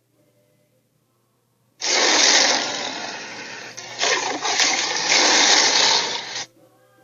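Sound effect of Red Claw, a cartoon sharptooth dinosaur, screeching. It starts about two seconds in as a loud, noisy, unpitched scream, dips briefly, surges again and cuts off suddenly.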